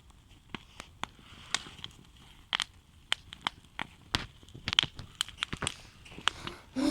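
Wood fire crackling: irregular sharp pops and cracks, growing denser and louder after the first couple of seconds.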